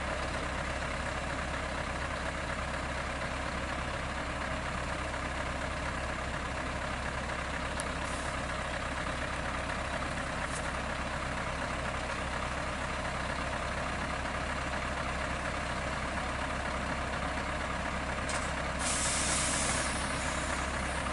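Heavy truck's diesel engine running steadily, with a loud burst of air hiss near the end, like an air brake venting.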